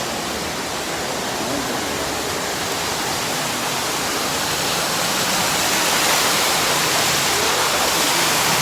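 Waterfall rushing steadily, water pouring down onto rocks in an even roar, growing a little louder about two-thirds of the way through.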